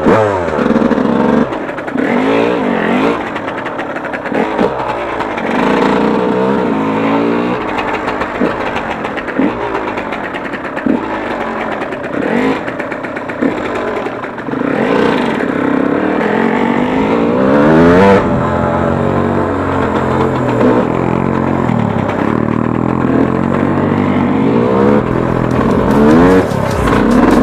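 Yamaha YZ 125 two-stroke single-cylinder motocross bike being ridden. The engine revs up and drops back again and again, with a longer climb in revs about two-thirds of the way through.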